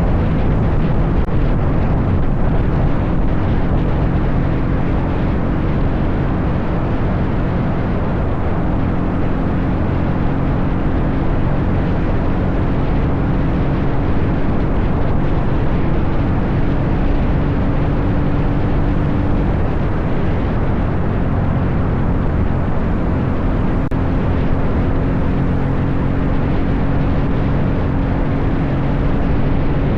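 Dirt bike engine running while riding, its pitch stepping up or down a few times, notably around a third and two thirds of the way through, over a dense steady rush of noise.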